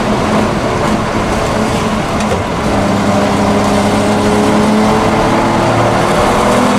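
DKW Munga's three-cylinder two-stroke engine running under way, heard from inside the open cab along with road and wind noise. From about a third of the way in its note steadies and climbs slowly as the vehicle gathers speed.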